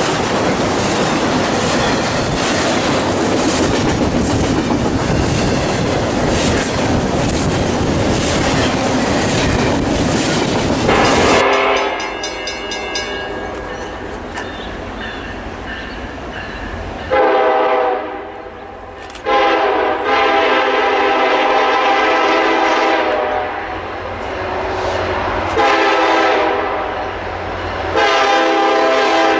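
A freight train rolling past, its wheels clacking steadily over the rail joints, then a locomotive's air horn sounding a chord of several tones in a series of blasts: two short ones, a long one, and more near the end.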